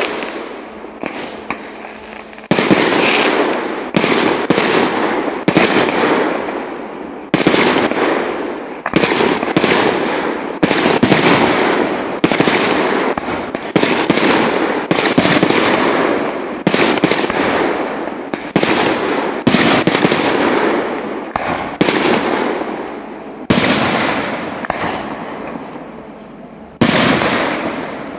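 Aerial firework shells bursting one after another in a display, about one bang a second, each bang fading away slowly before the next. A short gap comes before a last loud bang near the end.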